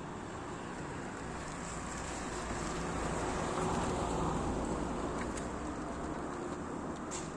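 A vehicle passing: a steady rush with a low hum that grows louder to a peak about four seconds in, then fades.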